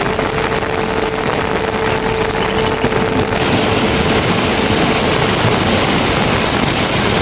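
Loud, steady rush of water, like heavy rain or a torrent, with a single held tone over it for the first two-thirds.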